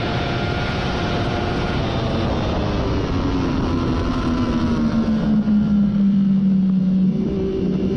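Triumph Daytona 675's inline three-cylinder engine through a Hindle slip-on muffler, heard onboard with wind rush; the engine note falls steadily over a few seconds as revs drop, then holds steady with a small jump about seven seconds in.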